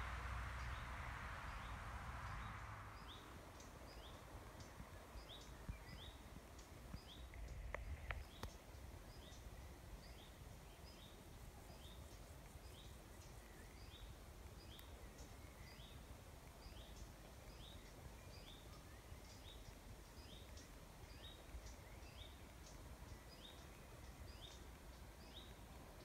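Faint woodland ambience: a small bird repeats short, high, falling call notes about twice a second over a low background rumble.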